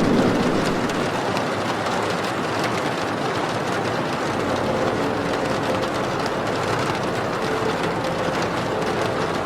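Steady rain falling, an even hiss, with faint music tones coming in about halfway through.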